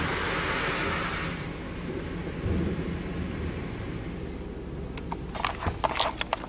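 An automatic car wash's water jets spray hard onto the car, heard from inside the cabin. The hiss of the spray dies away about a second and a half in, leaving a low rumble of the wash machinery. A few sharp clicks come near the end.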